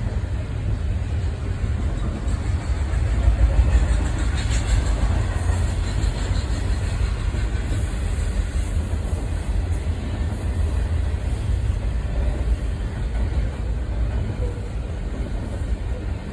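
A passing train's steady low rumble, a little louder about four seconds in.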